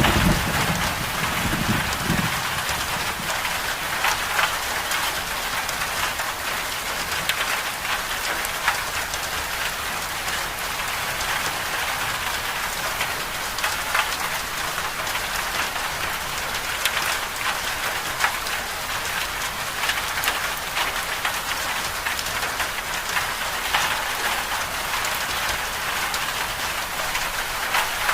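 Moderate rain falling steadily: an even hiss with scattered drops pattering. A low roll of thunder dies away in the first couple of seconds.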